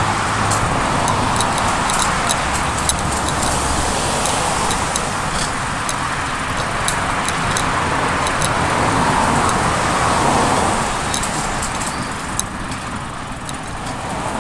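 Steady rush of wind and road noise while riding a bicycle along a road, with scattered light clicks and rattles from the bike. The noise swells briefly near the middle, like a passing car.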